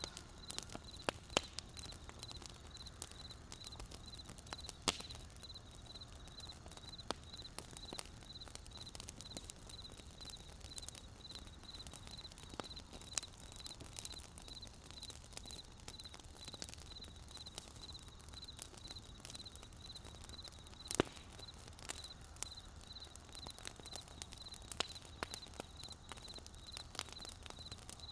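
Wood campfire crackling, with irregular sharp pops and snaps, the loudest about 21 seconds in. A faint, evenly pulsed high chirping runs steadily behind it.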